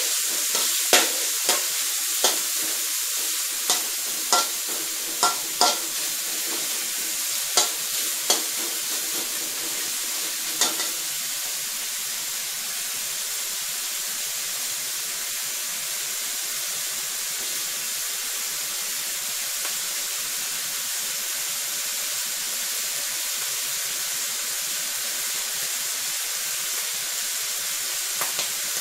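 Diced pork belly sizzling in oil in a wok as its fat renders out. A metal spatula clanks and scrapes against the wok about ten times in the first eleven seconds, then the sizzling goes on steadily alone.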